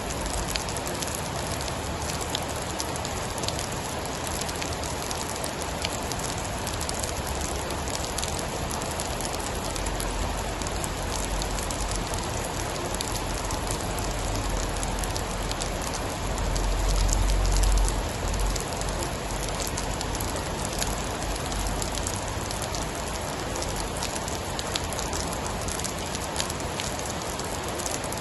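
Steady heavy rain with scattered small crackles. About halfway through, a low rumble of distant thunder swells up and fades away.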